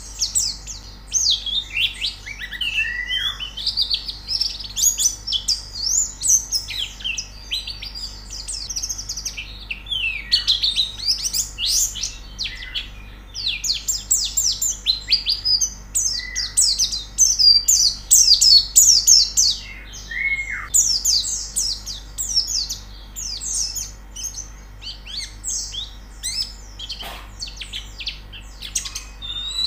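White-eyes (pleci) singing: long runs of fast, high-pitched chattering trills, with a few short downward-sliding whistles now and then.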